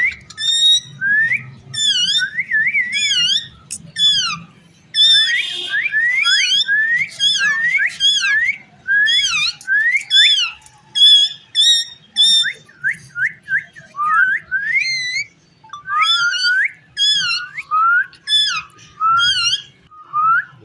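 Indian ringneck parakeet whistling: a long, unbroken run of quick whistled notes that swoop up and down one after another.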